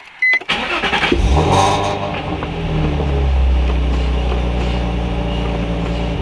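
A short electronic chime, then the Nissan 350Z's 3.5-litre V6 engine is started: it catches about a second in, runs up briefly on the start flare and settles to a steady idle, heard from inside the cabin.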